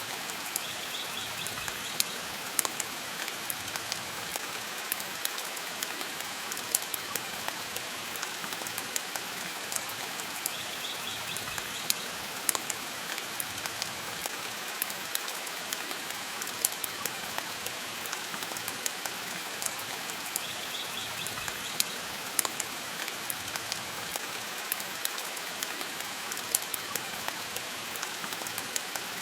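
Steady rain with a crackling wood fire: an even hiss with frequent sharp pops and snaps scattered throughout.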